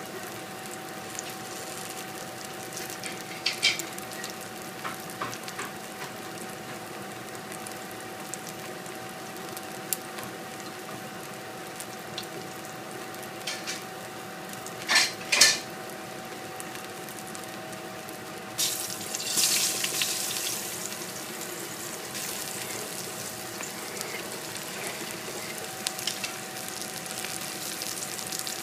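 Hot oil and aromatics sizzling softly in a stainless steel pot, with a few sharp clinks and knocks of utensil against the pot. About two-thirds of the way in, the sizzling jumps up loudly as cut eggplant goes into the hot oil, then settles into steadier frying.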